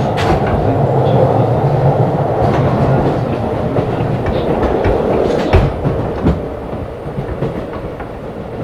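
Keisei 3500 series electric train running, heard from inside motor car MoHa 3514: a steady rumble and motor hum, with wheels clacking sharply over rail joints a few times. The running noise grows quieter over the last few seconds.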